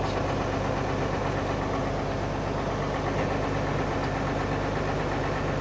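Tractor engine running at a steady idle, an even low hum with a fine rapid pulse that does not change.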